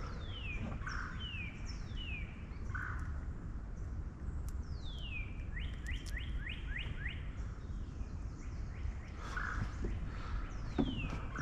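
Birds calling from the riverside woods: a clear whistled note sliding down, repeated every second or so, with a quick run of about six short notes about halfway through. Under them is a steady low rumble.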